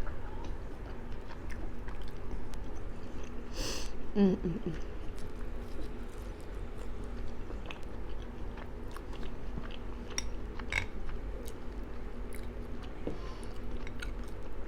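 A person chewing and eating chicken, sausage and shrimp gumbo close to the microphone, with scattered small mouth clicks and a brief vocal sound about four seconds in.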